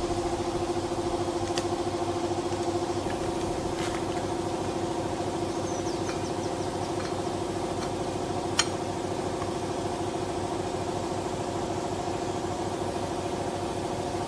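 A motor running steadily at one constant pitch, with a few faint clicks over it.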